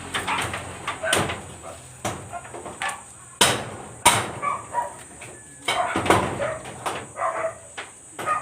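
Hammer blows on wood at an irregular pace, single sharp knocks with gaps between them, the loudest two about three and a half and four seconds in.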